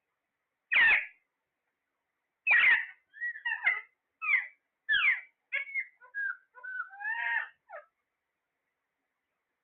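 Parrot calling: two loud harsh squawks about two seconds apart, then a quick run of short chirps and whistles that stops about two seconds before the end.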